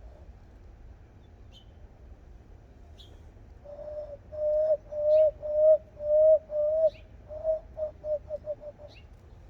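Hand call: a person blowing into cupped hands, giving a run of about a dozen low whistled notes, each dipping slightly in pitch at its end, that get shorter and quicker toward the end, like a dove's coo. A small bird chirps faintly about every second and a half.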